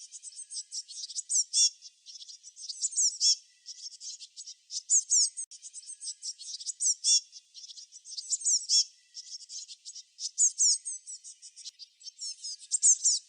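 Small songbirds chirping in quick, high, sweeping notes and twitters, in bursts every second or two with short pauses between.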